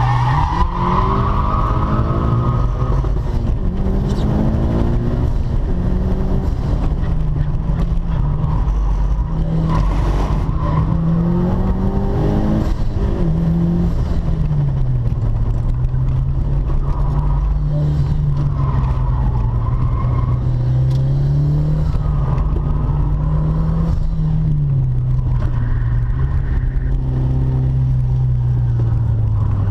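Mitsubishi Lancer Evolution V's turbocharged four-cylinder engine, heard from inside the cabin, revving up and dropping back again and again as the car is driven hard through corners. Tyres squeal for the first few seconds.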